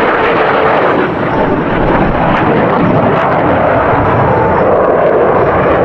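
Blue Angels F/A-18 Hornet jet engines, loud and fairly steady throughout.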